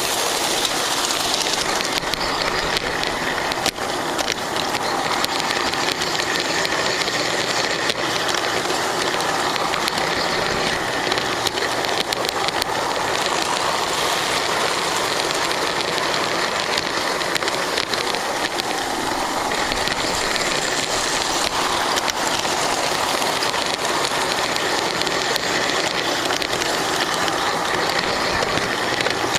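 Lionel GP9 O gauge model diesel locomotive running along its track, recorded from on board: a steady whir of its electric motor and gearing with rolling wheel noise and faint clicks from the rails.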